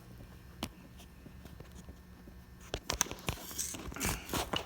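Scattered sharp plastic clicks and rustling as a Corvette C6 engine air filter is worked out of its airbox: one click about half a second in, then a quick run of clicks and knocks in the last two seconds.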